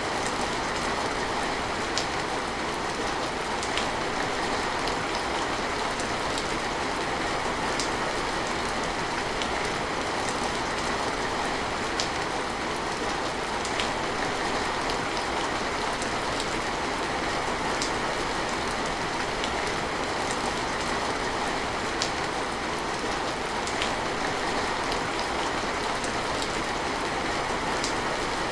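Steady rain falling, an even hiss, with now and then a single louder drop ticking close by.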